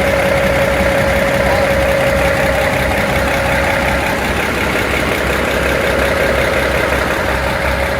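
Inline-six Cummins diesel engine of a General Electric 65-ton center-cab locomotive idling steadily, with a steady whine over it that fades about halfway through.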